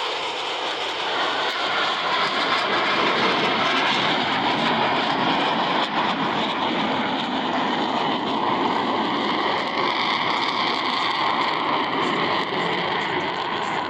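Jet noise from Blue Angels Boeing F/A-18 Super Hornets flying past, building about a second in and then holding steady.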